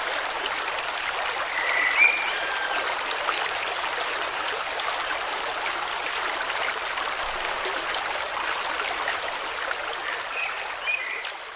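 River water flowing steadily, with a few short bird chirps about two seconds in and again near the end. The sound begins to fade out at the close.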